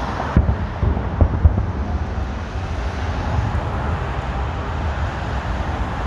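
Distant fireworks going off as a quick run of four or five low booms in the first second and a half, over a steady rumble of traffic and wind on the microphone.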